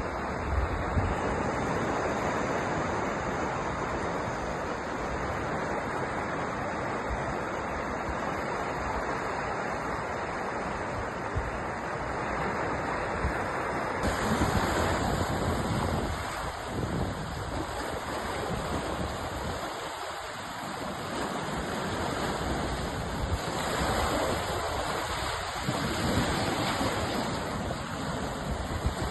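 Sea surf: a steady rush of waves washing in, swelling louder and easing back every several seconds.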